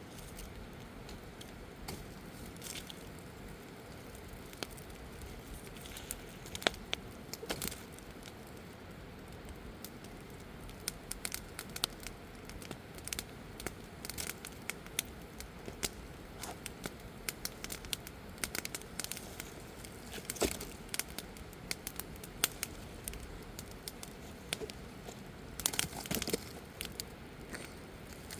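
Wood campfire crackling, with irregular sharp pops and snaps over a steady low hiss; the pops come more often in the second half.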